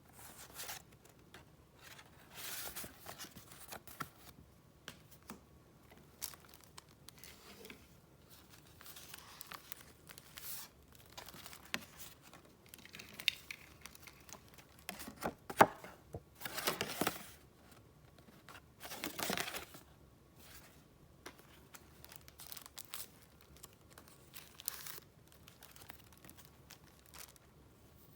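Paper being handled up close: irregular rustles, crinkles and light taps, with the loudest crinkling just past halfway and again about two-thirds in.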